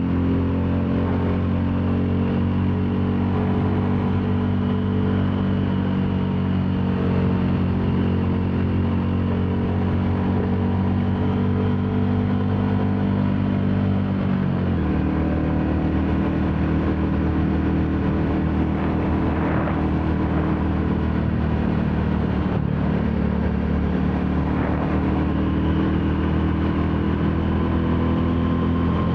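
Royal Enfield Classic 350's single-cylinder engine running steadily under way. Its note changes once, about halfway through, then holds steady again.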